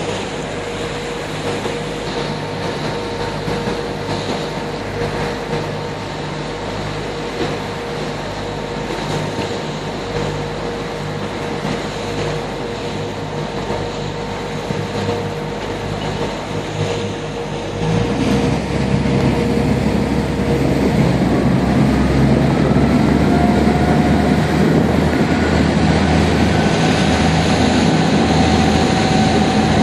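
Tour boat's engine running steadily under way. About eighteen seconds in, the low rumble gets louder and a whine rises in pitch and holds, as the engine is throttled up.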